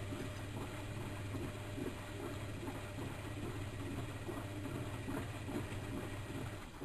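Bauknecht WAK7760 front-loading washing machine in its wash cycle: the drum motor hums steadily while the laundry and water tumble with an irregular patter, and the drum stops turning near the end.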